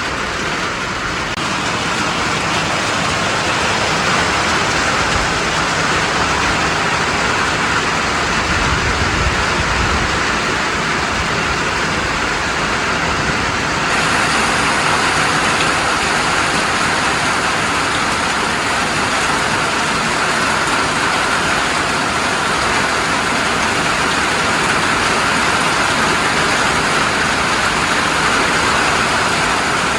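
Heavy rain falling steadily on a roof, a dense, even hiss with no breaks, changing slightly in character about halfway through.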